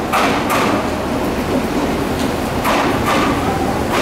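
Aoimori 701 series electric train rolling slowly into the platform, its wheels clacking over the track in two pairs of knocks, about a second apart in time from each other's pair, over a steady rumble.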